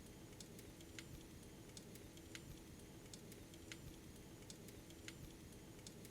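Faint fireplace fire crackling: sharp pops at uneven intervals, about one or two a second, over a steady low hum.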